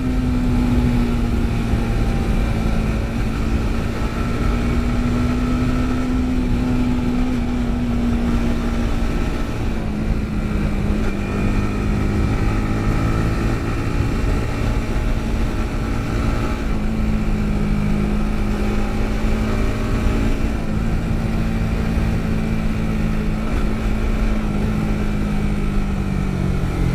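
Yamaha MT-15's single-cylinder engine running at a steady cruising pitch with a steady rushing noise underneath. The pitch sags gently and then falls near the end as the bike slows.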